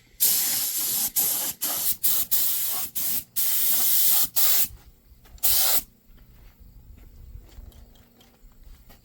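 Paint sprayer spraying protective coating onto a truck frame in a run of loud hissing bursts with short breaks; the spraying stops about six seconds in.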